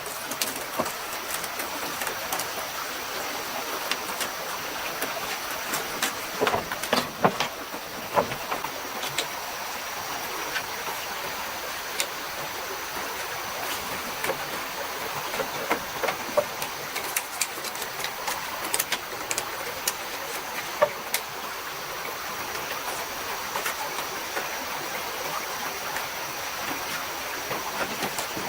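Mountain stream running steadily, with scattered sharp knocks and clicks from work close by.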